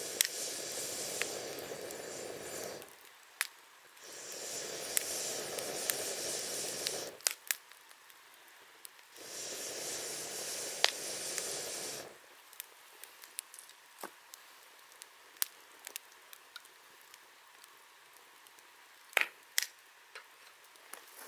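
Wood campfire crackling with scattered sharp pops. Three long rushing hisses, each about three seconds, come one after another in the first twelve seconds.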